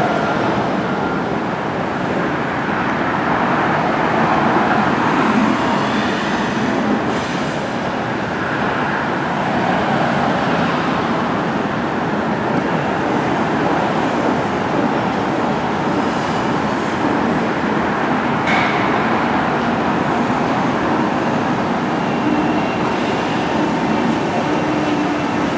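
Train running on its track: a steady rumble of wheels on rails with no breaks.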